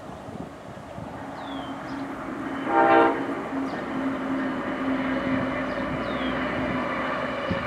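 Amtrak passenger train of Amfleet cars passing, its rolling noise building up, with a short horn blast about three seconds in and a steady low hum under it.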